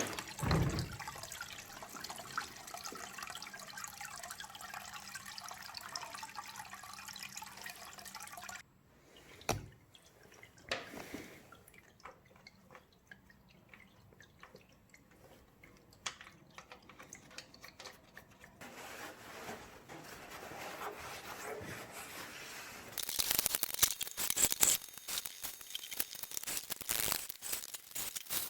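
Liquid dripping and trickling out of a seized Wisconsin TJD engine: the gas or diesel poured down the cylinder to free it, leaking through into the crankcase and out. A steady trickle at first, then scattered drips, with louder crackling noise near the end.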